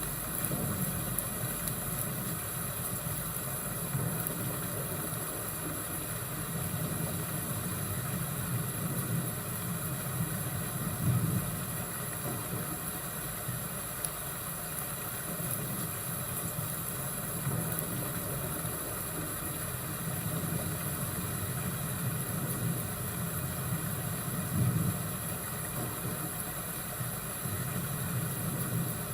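Fireplace and thunderstorm ambience: a steady low rumbling haze that swells briefly about 11 seconds in and again near the end.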